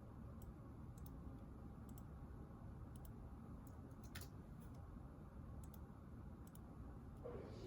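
Faint typing on a keyboard: light, irregular key clicks over quiet room tone, with one sharper click about four seconds in.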